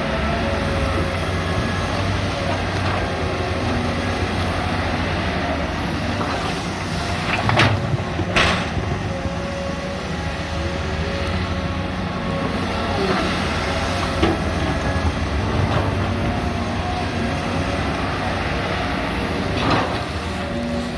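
Two hydraulic excavators, a CAT 320 Next Gen and a Komatsu PC200-7, digging in rock. Their six-cylinder diesel engines run steadily under load with a faint steady whine. A few sharp scrapes or clanks of a bucket against rock stand out, the loudest about seven and a half and eight and a half seconds in.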